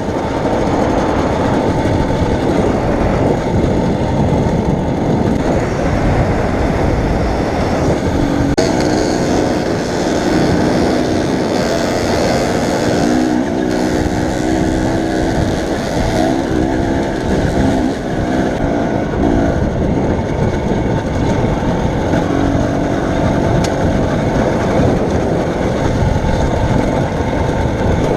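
Steady road and engine noise of a vehicle under way, a dense even roar. A few steady tones come and go through the middle.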